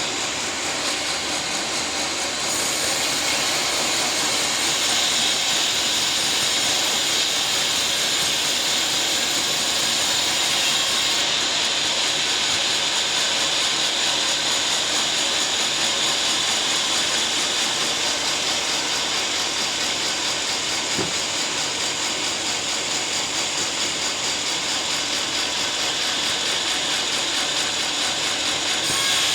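Sawmill running steadily while sawing a teak log into planks, a loud continuous machine noise. A high whine in it strengthens a few seconds in.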